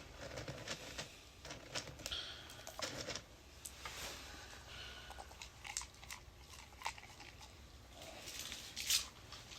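A dog chewing a treat: faint, irregular crunches and clicks of its teeth, with a louder crunch near the end.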